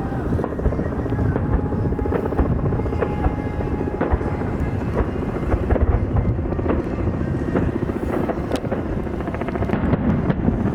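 Helicopter rotor chopping steadily in a dense low rumble, with a few sharp cracks scattered through it.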